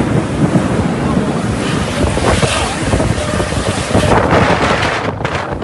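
Strong storm wind buffeting the microphone: a loud, gusty rush that swells and eases.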